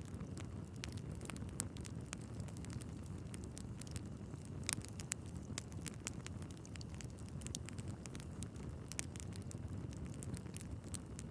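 Wood fire burning in a fireplace: a steady low rumble of the flames with frequent irregular crackles and pops from the logs, a few louder pops scattered through.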